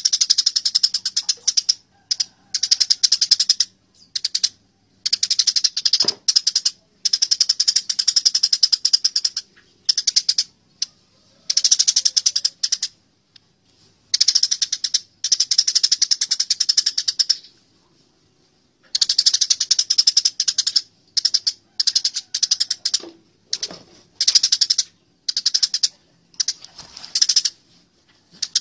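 Eurasian tree sparrows fighting. They give bursts of rapid, harsh, high chirping chatter, each lasting about half a second to three seconds, separated by short pauses.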